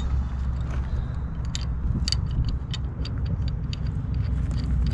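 Vehicle engine idling with a steady low rumble, with light, irregular clicks and rattles over it.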